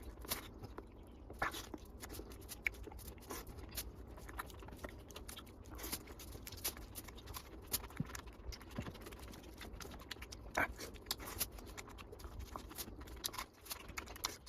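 A person chewing and smacking their lips while eating mutton curry, close to the microphone. Irregular wet clicks and smacks come several times a second.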